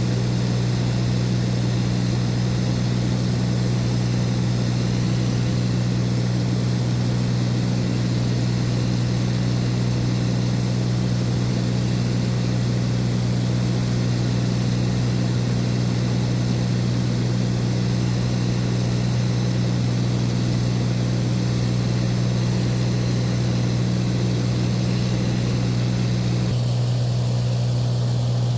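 Light aircraft's piston engine and propeller droning steadily in the cabin, a constant low hum with rushing air noise; the sound changes slightly near the end.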